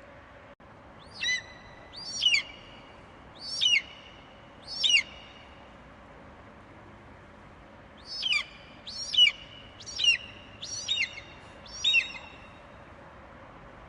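Eagle calling with short, high, sharply falling screeches. Four come about a second apart, then after a pause of about three seconds five more follow at the same pace, over a faint steady hiss.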